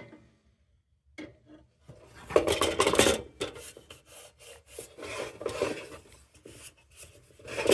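Irregular scraping and rubbing on metal, with a few knocks, after about two seconds of near quiet.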